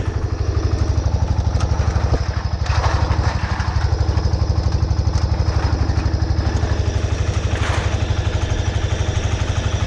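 Air-cooled single-cylinder Deutz diesel on an old Case compactor roller running steadily, with a rapid, even chug from its single cylinder firing.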